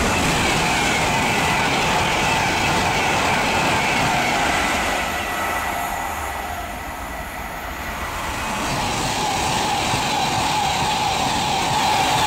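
Class 390 Pendolino electric trains passing at speed: a loud rush of wheels on rail with the whine of the traction motors. The whine falls in pitch at the start, the sound eases off around the middle, and it builds again as the next train comes through.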